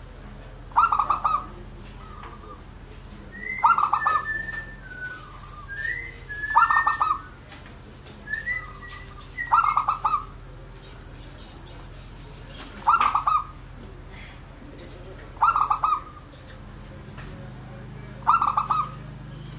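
Perkutut (zebra dove) cooing: its staccato pulsed song phrase repeated seven times, about every three seconds. Between the first few phrases come short higher sliding whistles.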